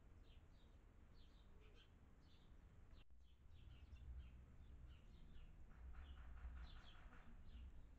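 Small songbirds chirping faintly, a steady stream of short, high, falling chirps with a quick run of repeated notes about six seconds in, over a low rumble.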